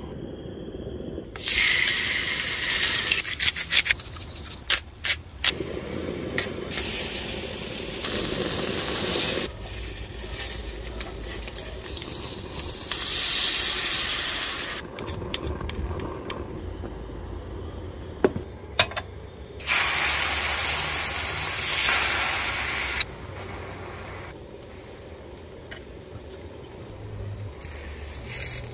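Steak and tortillas frying in a Griswold cast iron skillet and griddle: sizzling that comes in several separate loud stretches, with sharp clicks and scrapes from metal tongs in between and a quieter sizzle near the end.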